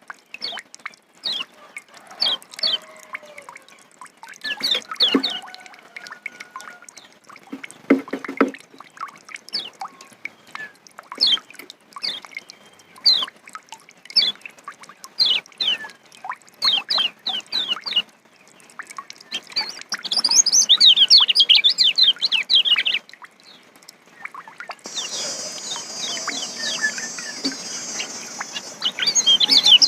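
Kecial (white-eye) birdsong: a run of short, falling chirps, a few each second. About two-thirds through comes a fast, dense burst of song, and in the last few seconds it gives way to continuous high twittering.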